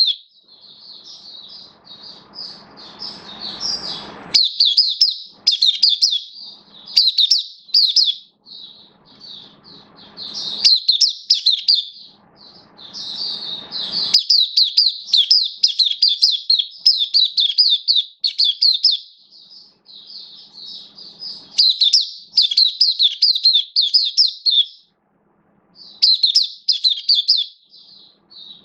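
Oriental white-eye (mata puteh) singing: long runs of fast, high twittering song with brief pauses, one of them near the end.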